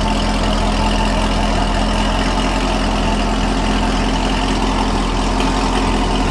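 Car engine idling steadily, warming up.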